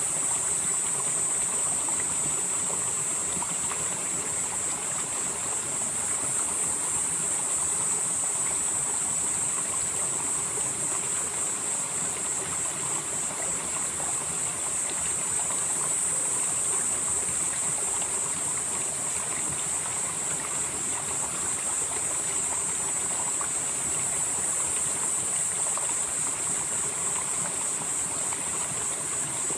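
Valley stream flowing steadily, a continuous rushing of water. Over it runs a high-pitched hiss that swells and fades about every ten seconds.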